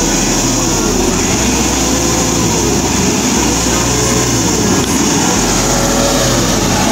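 Truck engines running hard under load as two trucks try to tow a bogged-down truck out, the revs rising and falling.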